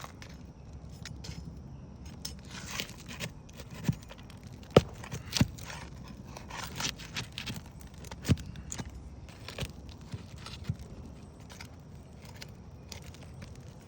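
Hand work on asphalt roof shingles: scraping of shingles being lifted and unsealed, with scattered sharp clicks and taps of a tool on the shingles and nails, the loudest about five seconds in.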